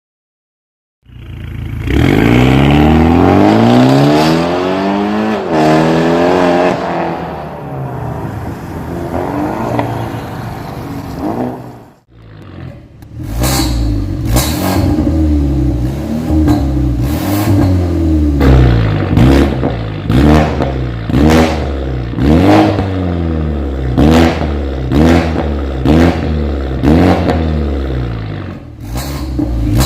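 BMW 430i's B48 turbocharged four-cylinder engine, fitted with an aftermarket full exhaust system, comes in loud about a second in with its revs sweeping down over several seconds. After a brief break about twelve seconds in, it is revved again and again, about once a second, each rev ending in a sharp crack from the exhaust.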